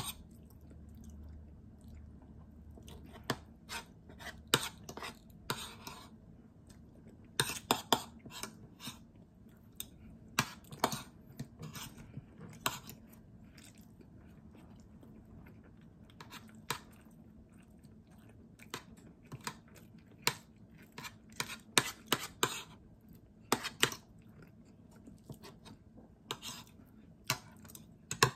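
A person chewing food close to the microphone, with irregular clusters of sharp wet clicks and crunches.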